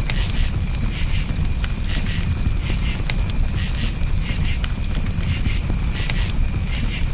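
Campfire crackling with scattered sharp pops over a low rumble, and crickets chirping in repeated pulses throughout.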